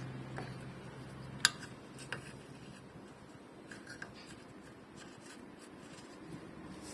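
Small parts of a car's sunroof mechanism being handled and fitted by hand: a sharp click about a second and a half in, a smaller click just after, then light rubbing and faint ticks.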